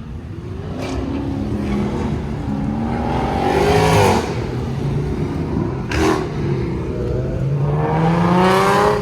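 A car engine at full throttle, accelerating hard through the gears. The pitch climbs steadily, drops at a gear change about four seconds in, then climbs again and is loudest just before the end.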